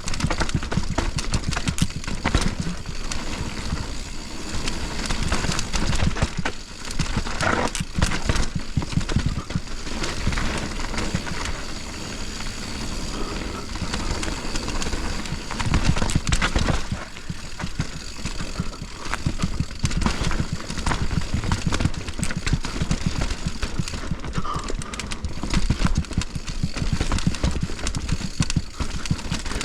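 Mountain bike descending a dirt trail at speed: a steady rushing noise with dense rattling and knocks as the tyres and frame go over rough ground, and a few louder jolts.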